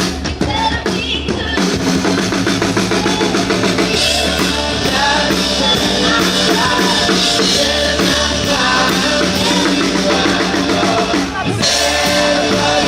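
Live band playing an upbeat rock song, with the drum kit prominent.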